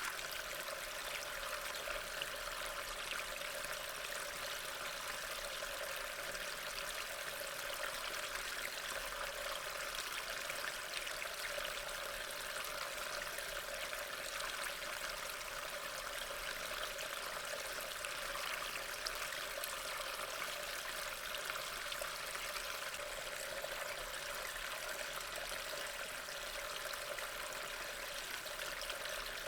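Steady rain: an even wash of falling water with fine drop patter, unchanging throughout.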